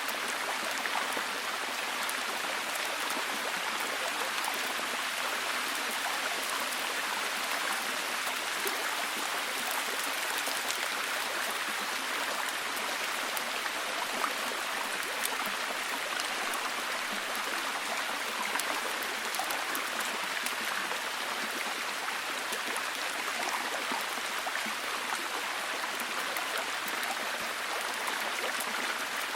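Steady, heavy rain falling, an even hiss with scattered fine drop patter.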